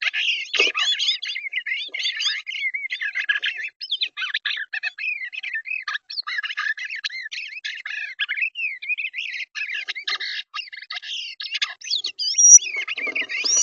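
Songbirds chirping and singing in a quick, dense run of rising and falling notes. There are a few low knocks or rustles just after the start and again near the end, and a sharp high note shortly before the end.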